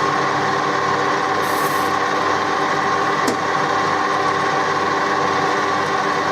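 Electric drill running steadily with a whine at several fixed pitches as the bit cuts into hard metal, the hardened end of a cork remover. A short click about three seconds in.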